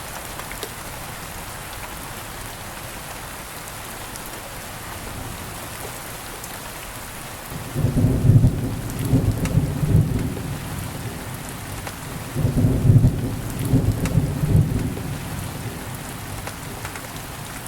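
Steady rain falling, with two rolls of low thunder about halfway through, each rumbling for about three seconds, the second starting a few seconds after the first ends.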